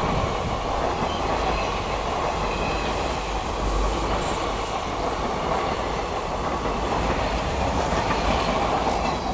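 Express train running through a station at speed: a steady, loud rush of wheels on rails that begins to die away at the very end as the train draws off.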